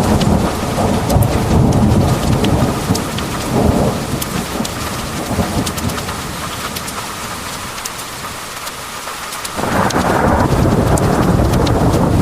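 Heavy rain with thunder rumbling. The rumble dies down about four seconds in, leaving the hiss of the rain and sharp ticks of drops striking a surface. Loud thunder breaks in suddenly near the end and keeps rumbling.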